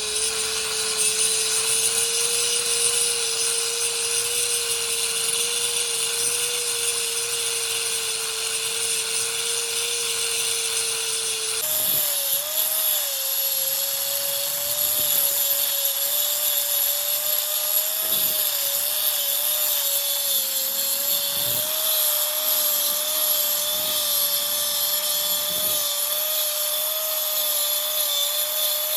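A power tool running steadily on metal work, with a constant whine over a hiss of cutting. About twelve seconds in, the sound changes abruptly and the whine steps up in pitch, wavering a little.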